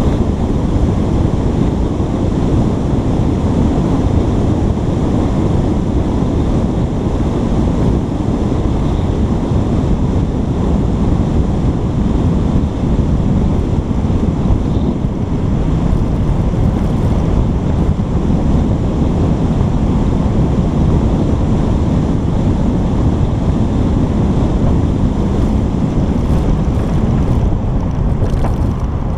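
Steady, loud wind buffeting on a GoPro's microphone, a deep rumble with no break.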